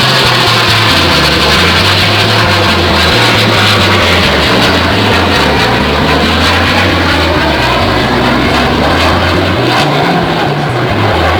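Military aircraft flying low past, a loud steady rush of engine noise with a slow swirling sweep in its pitch as it passes. A bass line of background music runs underneath.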